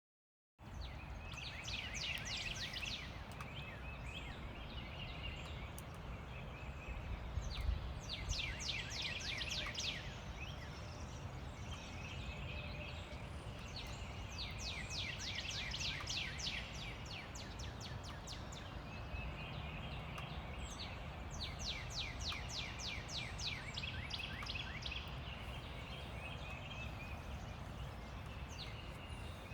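Chorus of wild songbirds. One bird repeats a rapid series of downslurred notes about every six seconds, with other chirps in between, over a steady low rumble of distant road traffic.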